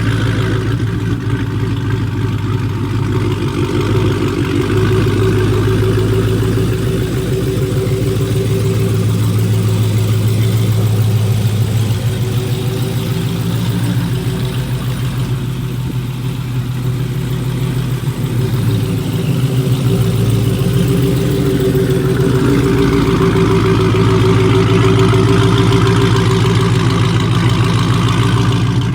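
Cammed 6.1-litre Hemi V8 of a Chrysler 300 SRT8 running steadily, its engine and exhaust note holding at a fairly even pitch with small shifts partway through.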